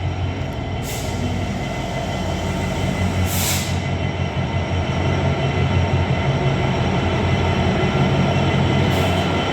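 Class 66 diesel-electric freight locomotive's two-stroke EMD engine running steadily and growing slowly louder as it comes through. There are two short hisses, about one and three and a half seconds in.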